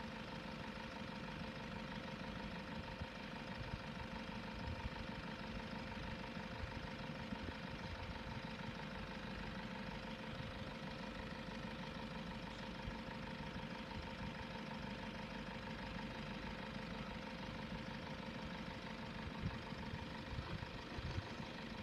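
Road vehicles idling in a queue at a closed level crossing, a steady engine rumble with a faint unchanging hum underneath.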